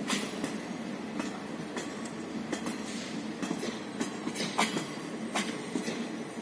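Passenger coaches of a train rolling past: a steady rumble of wheels on the rails with sharp clacks about twice a second as the wheels cross rail joints.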